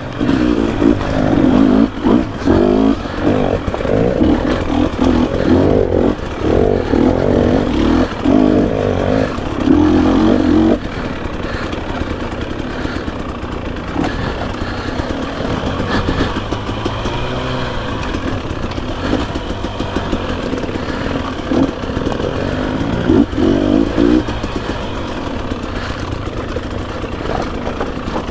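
GasGas EC300 two-stroke dirt bike engine being ridden, revving up and down with the throttle. Loud, busy revving for about the first ten seconds, then running quieter and steadier.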